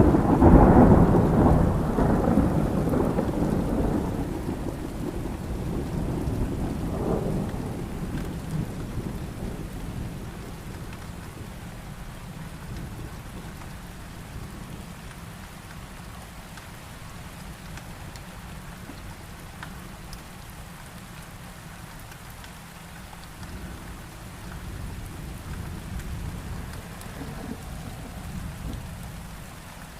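Thunderstorm: a thunderclap starts loud at the very beginning and rolls away over about ten seconds, over steady heavy rain. A fainter rumble of thunder swells again near the end.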